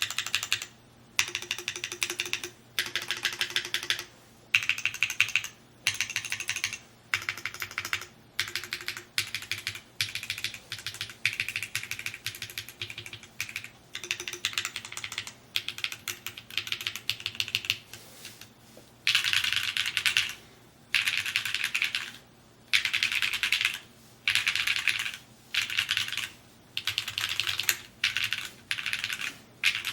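Typing on a Mode Encore 2 custom mechanical keyboard: quick runs of keystroke clicks in bursts of about a second, with short pauses between them, the keystrokes louder in the second half.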